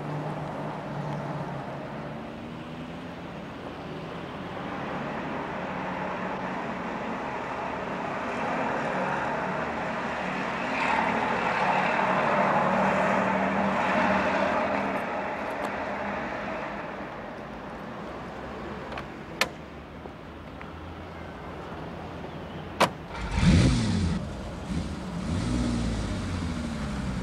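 Street traffic with a steady car engine hum, swelling midway as traffic goes by. Near the end there is a sharp knock, then a car engine starts and revs, its pitch rising and falling.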